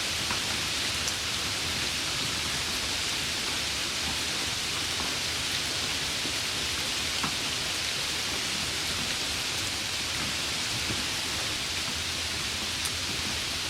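Steady rain: an even hiss of falling rain with a few faint single drop ticks scattered through it.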